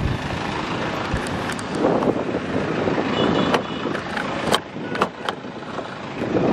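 Steady noise of vehicle traffic, with several sharp clicks and knocks near the middle and a brief high beep about three seconds in.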